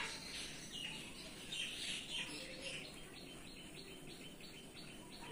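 A bird chirping: short high chirps, a denser cluster about two seconds in, then an even run of about three or four chirps a second.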